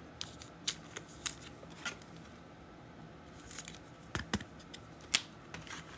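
Trading cards being handled and flipped through by hand: scattered soft clicks and snaps of card edges, a few sharper ones about four seconds in and near five seconds.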